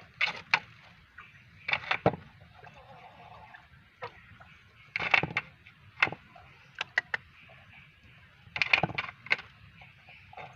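Short, sharp taps and knocks in small clusters of two or three, about six times, over a faint steady background.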